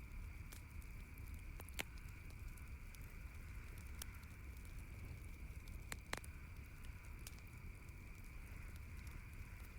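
Campfire crackling softly, with scattered small pops and two sharper snaps, one about two seconds in and one about six seconds in, over a steady low background hiss.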